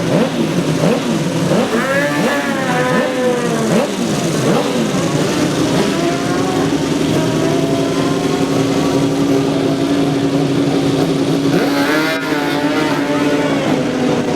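Superbike racing motorcycles revving hard and launching from the start line, their engine pitch climbing and dropping with each gear change. About twelve seconds in, another bike launches with a fresh run of rising revs, over a steady engine note held underneath.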